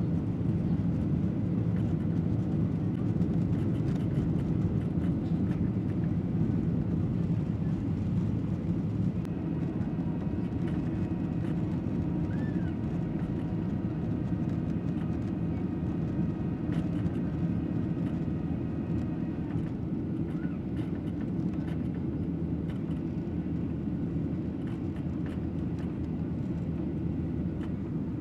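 Cabin noise inside a Boeing 737-800 climbing out after takeoff: a steady deep rumble of the CFM56 engines and airflow. Faint whining tones come in about nine seconds in and fade about ten seconds later.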